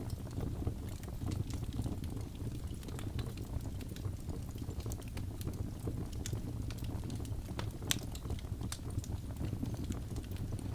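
Wood fire burning in a fireplace: a steady low rumble of flames with frequent sharp crackles and pops from the burning logs, one louder pop about eight seconds in.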